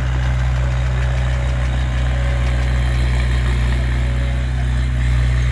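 Bulldozer's diesel engine running steadily, a deep even drone that holds at one pitch.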